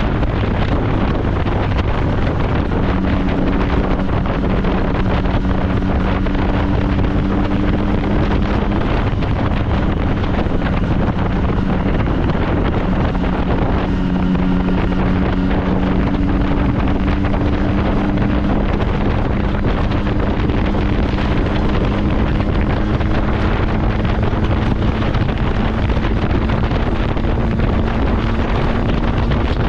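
Heavy wind noise on the microphone over a motorcycle engine running steadily at road speed, its note shifting slightly in pitch now and then.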